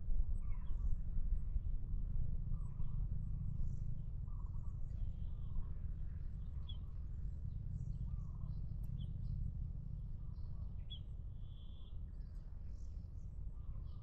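Birds chirping and calling in short, scattered notes, some high and some lower and repeated at irregular intervals, over a steady low rumble.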